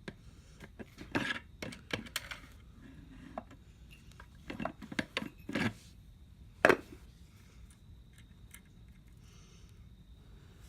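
Metal clinks and knocks as a flywheel is worked onto the crankshaft of a small Reo engine over its key, scattered taps with one sharp clank a little past halfway.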